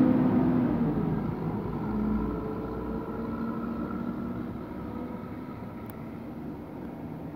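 Train moving away from the station. Its running noise and humming tones are loudest at the start and fade steadily over several seconds.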